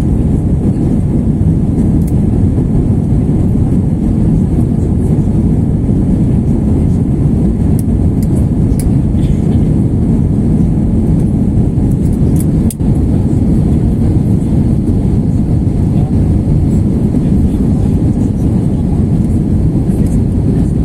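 Steady, loud cabin rumble of an Airbus A321-231 climbing after takeoff: engine and airflow noise, heard from a window seat at the rear of the cabin. A single brief click about two-thirds of the way through.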